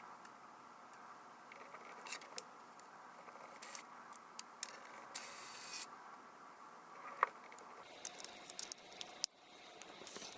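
Scattered small clicks, taps and scrapes from hands working on a compact digital camera and its small parts, with a brief hiss a little over five seconds in, over a faint steady hum.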